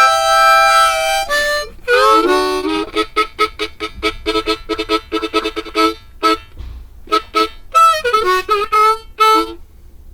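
Harmonica playing the closing instrumental: a long held chord, then a run of short, rapidly repeated notes and a few final chords before it stops.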